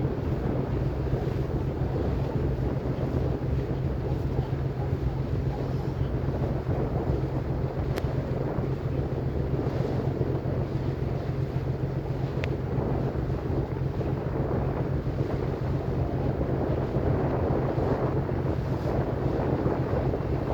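Ferry boat's engine running with a steady low drone, under heavy wind buffeting the microphone.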